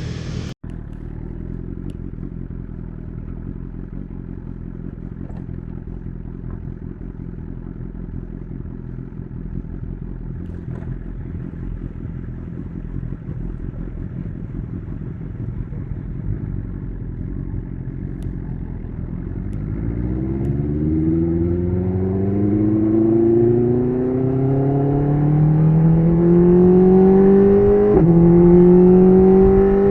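BMW S1000RR inline-four with an SC Project CR-T titanium exhaust running at low, steady revs, then about two-thirds of the way through pulling away, its pitch rising steadily, with a quick dip near the end as it shifts up a gear.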